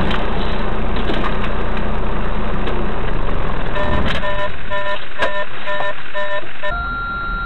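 Loud road and vehicle noise, joined about halfway through by a rapid, evenly repeated electronic beeping, about two beeps a second. Near the end it cuts off suddenly to a quieter background with a steady high tone.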